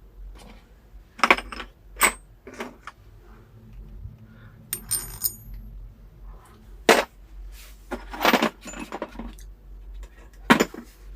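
Small steel pins and bolts from a steering wheel puller kit clinking against each other and against metal as they are handled and tried for fit. There are several separate sharp clinks with a brief high ring, spread unevenly.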